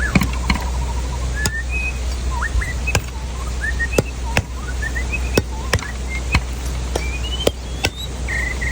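A knife chopping into a coconut in sharp strikes at uneven intervals, about one a second. Birds chirp between the strikes.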